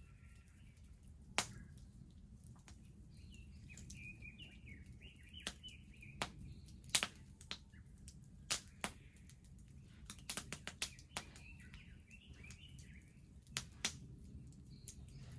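Wood bonfire crackling, with irregular sharp pops and snaps, a quick cluster of them about ten seconds in. Small birds twitter in two stretches behind it.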